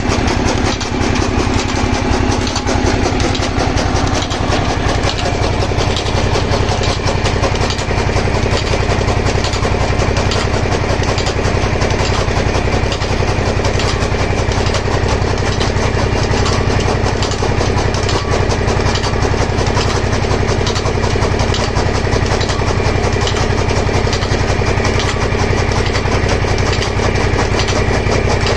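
An engine pumpset running steadily, driving a chaff cutter machine, with a fast even pulse of firing strokes.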